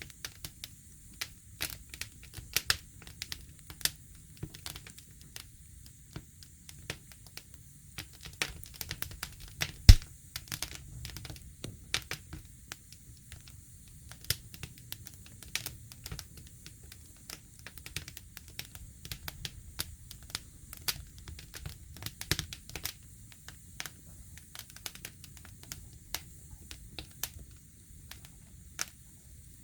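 Wood campfire crackling and popping: irregular sharp snaps over a low rumble of flame, with one much louder pop about ten seconds in.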